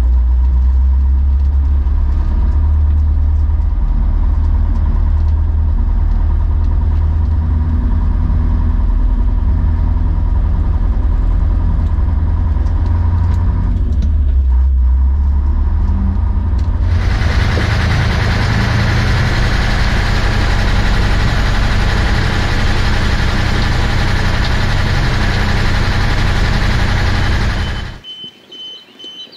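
TATRA Terrno1 dump truck's air-cooled V8 diesel running steadily. About seventeen seconds in, a loud rushing noise joins the engine for about ten seconds, then both cut off suddenly near the end.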